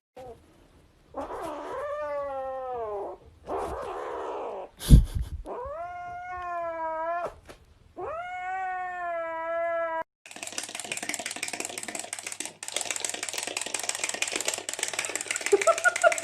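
Domestic cat giving a few long, drawn-out meows with a wavering pitch, with a sharp knock about five seconds in. After about ten seconds the meows give way to steady crackling, rustling noise.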